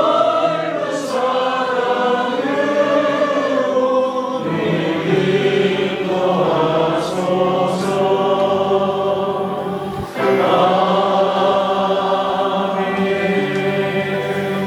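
A group of voices singing a slow hymn together with instrumental accompaniment, holding long notes, with a short break between lines about two-thirds of the way through.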